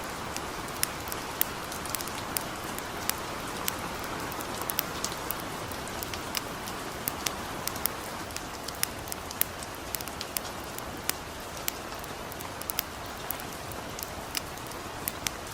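Gentle rain falling steadily, mixed with the irregular sharp crackles of a campfire.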